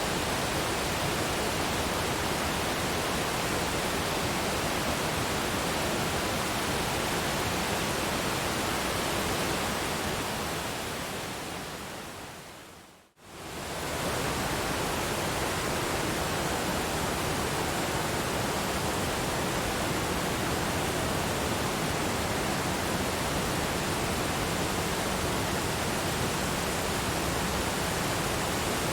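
Waterfall water rushing in a steady, even hiss. About ten seconds in it fades away over a few seconds to near silence, then cuts straight back in at full level: a loop or edit point in the recording.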